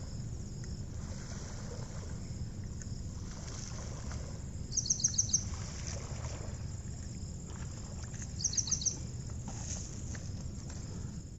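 Outdoor low rumble with two short bursts of rapid high bird chirps, about five quick notes each, about five seconds in and again at about eight and a half seconds.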